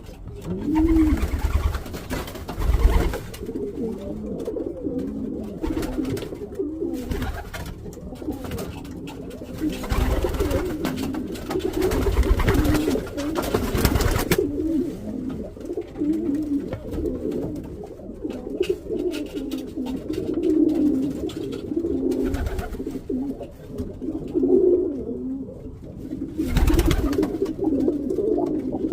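Several domestic racing pigeons cooing without a break, a steady low warbling chorus, with a few louder stretches of rustling noise over it.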